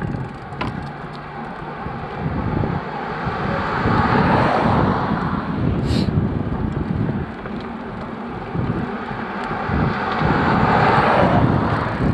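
Wind buffeting the microphone of a moving bicycle rider, a rushing noise with low gusty rumble that swells up twice.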